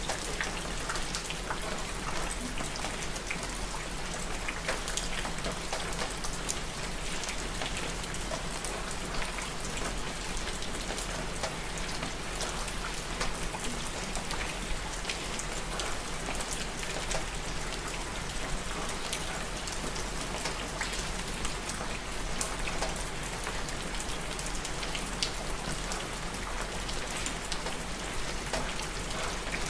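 Steady rain falling on a surface, an even hiss full of many fine drop ticks.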